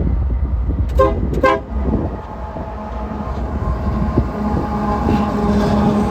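BNSF GE AC4400CW diesel locomotive sounding two short horn blasts about a second in, over the steady rumble of its engine. The engine sound grows louder toward the end as the locomotive draws nearer.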